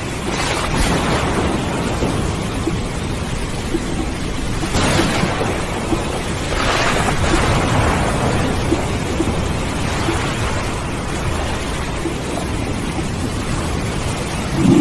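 Steady rain with thunder: rolls of thunder swell about half a second in, again near five seconds, and longest around seven seconds.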